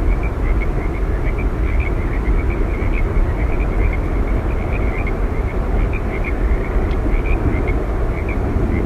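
Yosemite Falls' water rushing down in a steady, unbroken wash, heaviest in the low end. Short high chirps repeat over it throughout.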